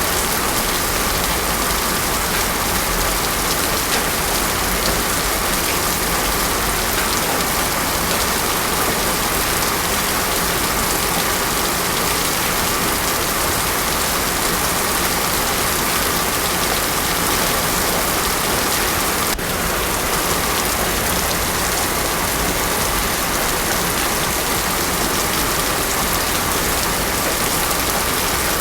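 Heavy rain pouring steadily onto a road: a dense, even hiss with no thunder.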